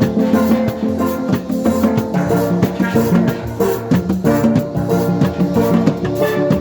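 Steel pan band playing, many pans striking quick, ringing notes over a steady beat of drums and percussion.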